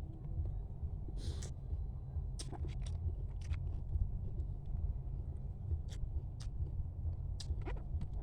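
Crab being eaten: scattered sharp cracks and crunches of shell being bitten and broken, with chewing, over a steady low rumble.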